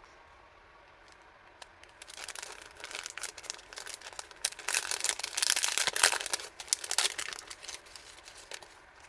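Packaging being crinkled and rustled by hand during unpacking. It starts about two seconds in, is loudest in the middle, and tapers to light rustling near the end.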